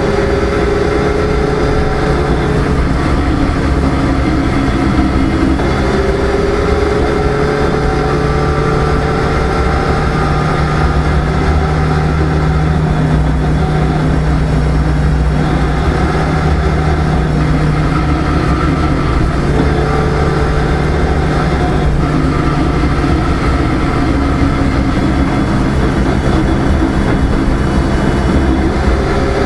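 A rally car's engine and road noise heard inside its stripped cabin while it drives. The engine note rises steadily and drops back several times, as at gear changes, over a constant low rumble.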